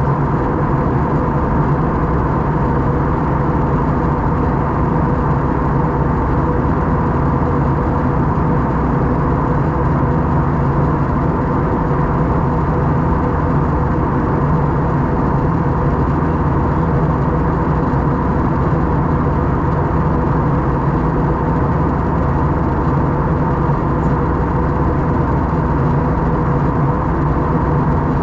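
Steady engine and airflow noise inside an Airbus A321 cabin in flight, an even drone with a few constant hums and no changes.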